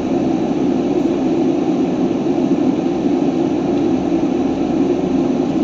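Steady drone of a heavy truck's engine and road noise heard from inside the cab while driving, even in level with a strong low hum.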